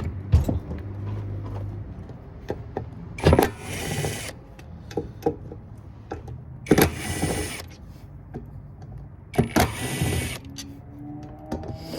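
Cordless power driver running in short bursts, about a second each and three times, backing out the screws that hold a heat sink, with small clicks and knocks of parts and tools between the bursts.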